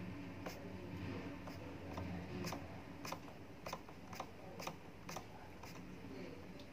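Small Stirling engine running, with a light click about twice a second over a faint low hum.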